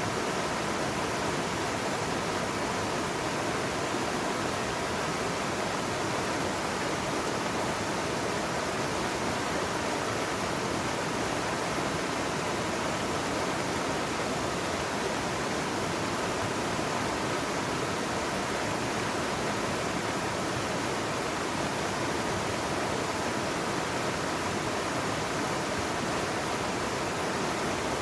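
Steady rushing of a mountain valley stream, an even wash of water noise with no breaks.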